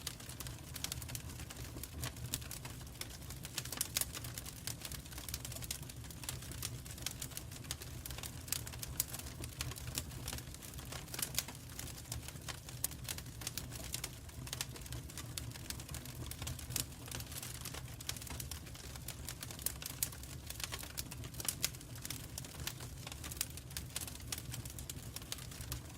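Wood fire burning in a fireplace: a dense, irregular crackle of small sharp pops over a steady low rumble of the flames.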